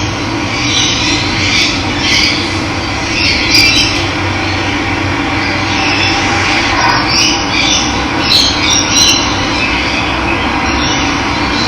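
Steady rush of running water, with birds chirping on and off over it.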